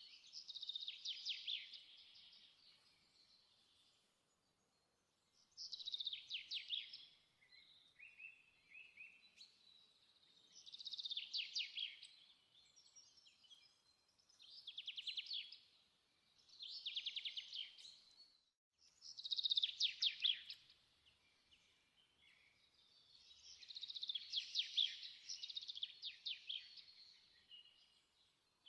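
A songbird singing short, fast trilled phrases, high-pitched, repeated every few seconds with pauses between them.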